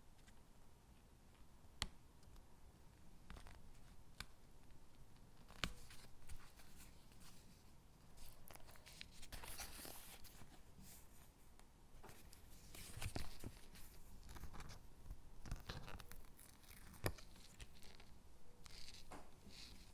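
Stickers peeled off their backing sheet and pressed onto paper cutouts: soft paper rustling and peeling, broken by a few sharp clicks and taps.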